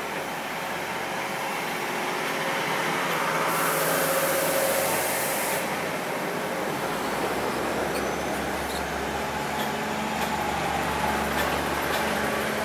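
A train running on the rails, with a hiss of air lasting about two seconds a few seconds in, and a low steady rumble setting in past the halfway point.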